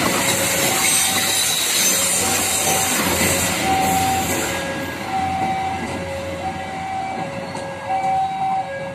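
Passenger train coaches rolling past on the rails, the wheel noise fading as the last coach moves away about halfway through. A two-tone warning signal keeps alternating between a high and a low tone, about one cycle a second.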